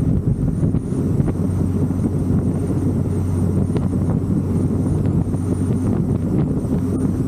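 Big-cam LS7 V8 of a C6 Corvette Z06 running steadily with a deep, choppy exhaust note, mixed with wind buffeting the microphone.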